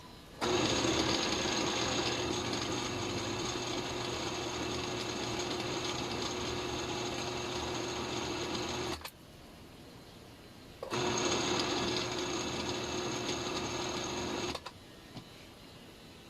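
Small electric kitchen-appliance motor running at a steady speed in two runs: about eight and a half seconds, a two-second pause, then about three and a half seconds more.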